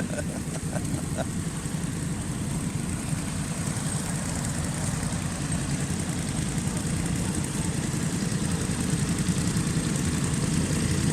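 Motorcycle engine running at low revs, a steady low rumble that slowly grows louder.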